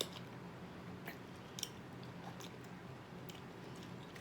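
A few faint, scattered wet clicks and smacks from sticky cotton candy and pickle being handled and eaten, over a low steady hum.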